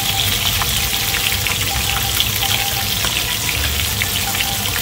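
Chicken thighs sizzling in hot oil in a pan while searing, with a steady hiss and many small crackles. A range-hood vent fan hums steadily underneath.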